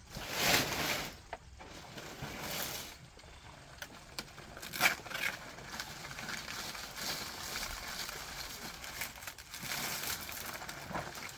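Rustling and crackling of dry vegetation being handled, with a loud burst near the start and a single sharp knock about five seconds in.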